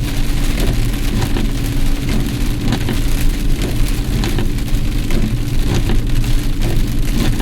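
Heavy rain pelting a car while it drives, heard from inside the cabin: a dense patter of drops with frequent sharper taps over a steady rumble of engine and road. The driver thinks the bouncing drops may be hail but could be wrong.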